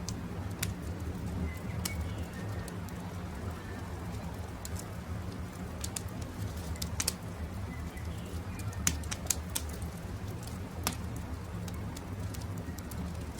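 Campfire crackling, with scattered sharp pops of burning wood over a steady low rumble of the flames. Birds call faintly now and then in the background.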